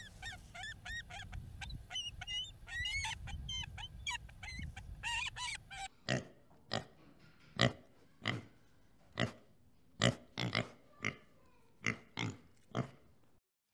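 A bald eagle calling in a quick run of short, high, chittering notes that rise and fall in pitch. About six seconds in it gives way to a warthog grunting: about a dozen short, sharp grunts at uneven intervals.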